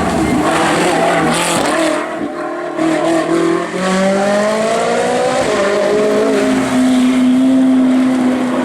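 Race car engine accelerating hard up a hill climb. Its pitch rises, drops back at each gearshift and rises again, after a brief lift about two seconds in.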